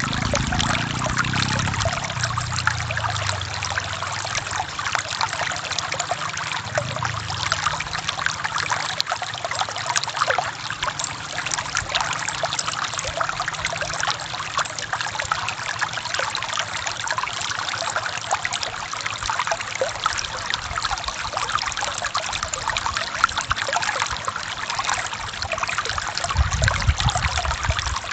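Forest stream running over rocks: a steady rush of splashing and trickling water. Brief low rumbles come near the start, around six seconds in and near the end.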